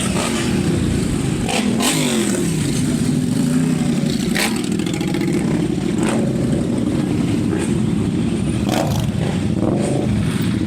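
Motorcycle engines running at a bike meet, one note dropping in pitch about two seconds in. A few sharp clicks are scattered through.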